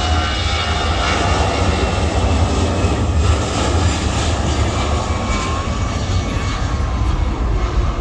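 Jet airliner engines running loud and steady close by, a dense rushing noise over a deep rumble, with high whining tones that fade out over the first couple of seconds.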